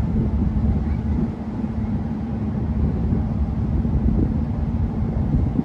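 Car ferry's engine running: a steady low rumble with a constant hum.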